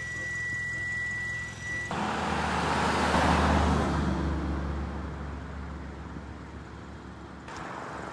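A steady high beep lasting about two seconds, then a vehicle passing by, its noise rising to a peak and fading away.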